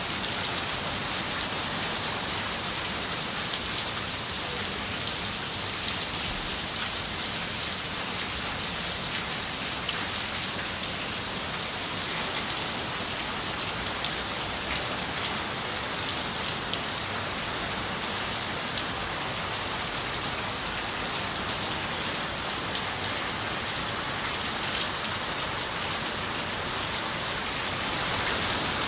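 Steady rain falling against a window pane, an even hiss with scattered sharp drop ticks.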